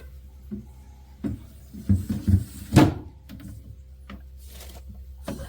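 Refrigerator shelf being shifted by hand: a series of short knocks and scrapes, loudest about two to three seconds in, over a low steady hum.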